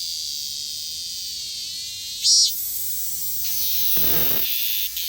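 A cicada singing: a steady high-pitched buzz, with a short louder burst about two seconds in and a brief rushing noise about four seconds in.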